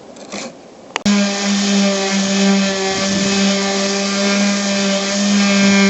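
Faint hand scrubbing, then a click about a second in as a handheld electric power tool starts and runs steadily at a constant pitch, cleaning the aluminum trailer roof around the hole to prep it for a new patch.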